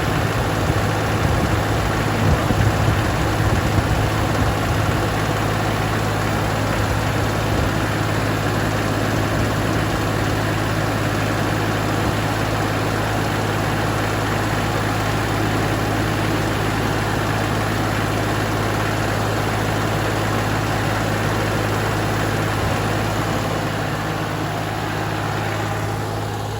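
Tractor engine idling steadily, a constant low hum that eases off slightly near the end.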